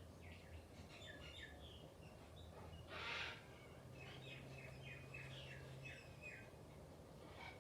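Faint birds chirping, many short quick chirps, with a brief harsh noisy burst about three seconds in and a low steady hum underneath.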